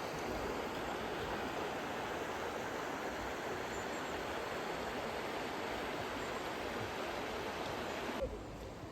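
A river's steady rush of flowing water. The sound drops off abruptly near the end.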